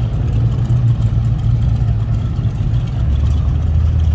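A car engine idling with a low, steady rumble; its note drops lower about three seconds in.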